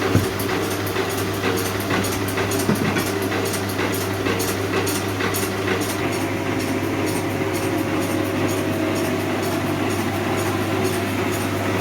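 Workshop machinery running steadily, a constant low hum under a fast, even clatter of ticks.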